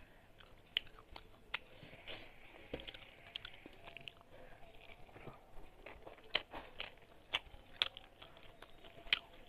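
Close-up chewing and lip-smacking of a mouthful of rice and prawn curry eaten by hand, with sharp wet mouth clicks at irregular intervals.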